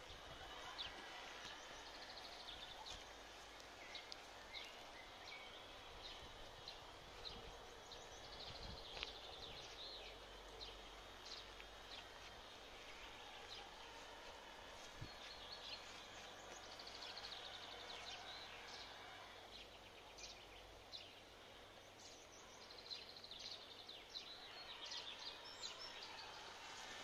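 Small birds chirping and calling again and again over quiet outdoor ambience, with a faint low rumble underneath.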